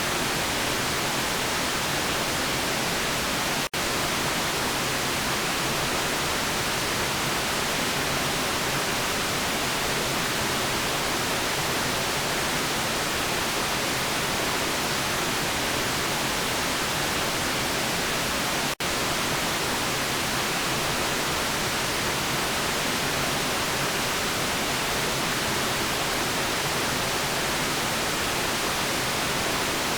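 Steady, even white-noise hiss with no change in level, broken twice by a momentary dropout, about four seconds and about nineteen seconds in.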